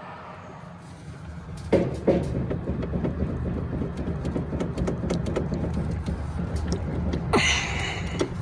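Belt-driven blower of a Carrier rooftop unit starting up about a second in on a newly fitted BX50 belt and running with a steady rumble and irregular clicking and knocking, with a harsher burst about seven seconds in. This is the sound the technician says "doesn't sound good".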